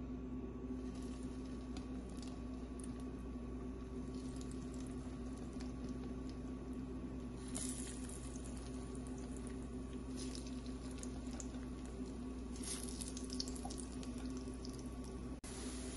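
Masoor dal patties sizzling and crackling in shallow hot oil in a frying pan, in short spells as each new patty is laid in, over a steady low hum.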